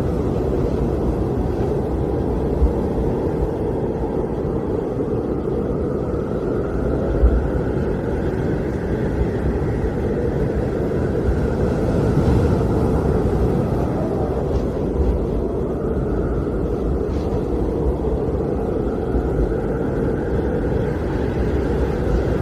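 Blizzard wind blowing steadily as a deep, dense rumble, with a fainter howl above it that slowly rises and falls in pitch.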